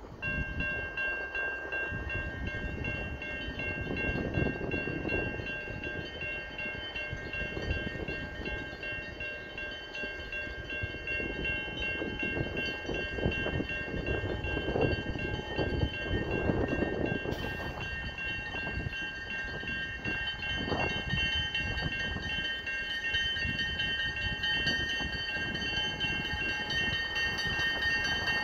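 CN local freight approaching behind a GP9RM and a GMD1 diesel locomotive; the engine and rail rumble slowly grows louder. Several steady high tones sound over it almost throughout.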